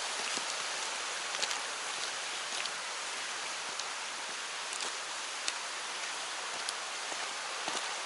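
Steady rush of a waterfall pouring into a clear mountain stream, an even hiss of falling water with a few brief sharp ticks.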